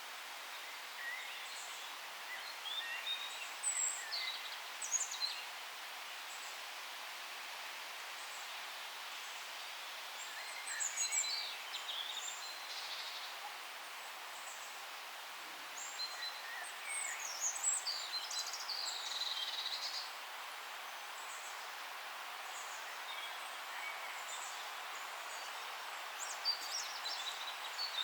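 Forest ambience: a steady background hiss with several songbirds chirping and trilling in short bursts, high-pitched, coming and going in clusters every few seconds.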